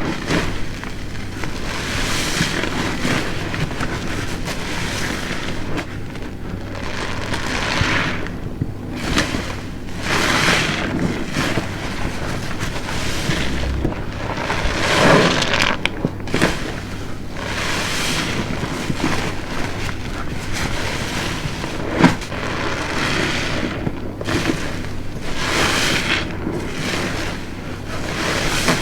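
Large soapy car-wash sponge being squeezed and released over and over, wet foamy squelching that swells and fades every second or two. A single sharp click about two-thirds of the way through.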